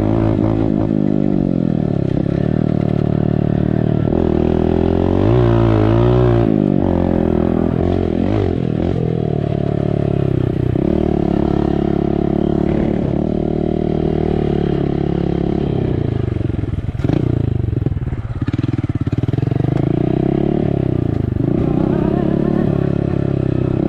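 Honda dirt bike engine, its exhaust without a silencer insert, revving up and down as it is ridden hard, the pitch climbing and falling with throttle and gear changes. About two-thirds of the way through the engine drops off briefly, then picks up again.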